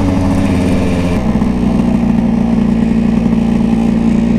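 Tuned two-stroke engine of a 1974 Vespa Special scooter running steadily, its note dropping to a lower, steady idle-like beat about a second in.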